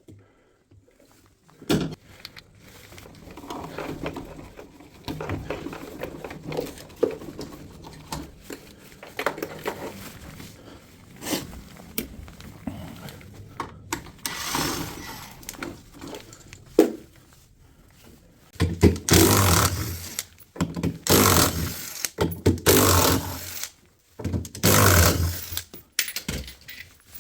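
Knocks, scrapes and small metallic rattles of parts and tools being handled while a drum washing machine is taken apart. About two-thirds of the way in come louder scraping bursts, each about a second long.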